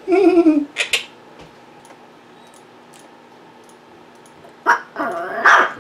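Quaker parrots calling: a short pitched call right at the start, a sharp high chirp just under a second in, then a louder shrill call with a wavering pitch near the end.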